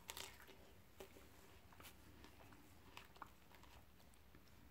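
Faint crunching and chewing of a bitten Ruby Crunch plum with crisp, juicy flesh: a few soft, scattered clicks over near silence.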